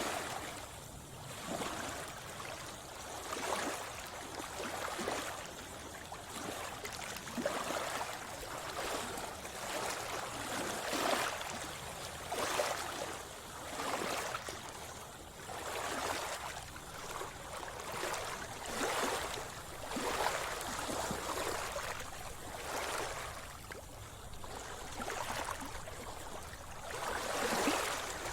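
Sea water splashing and sloshing in repeated surges every one to two seconds, made by a swimmer's strokes through the water.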